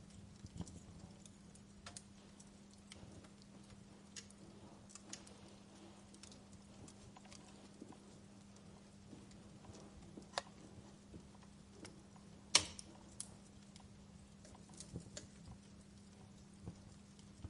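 Wood fire crackling in a fireplace: irregular sharp pops and snaps, the loudest about two-thirds of the way through, over a faint steady low hum.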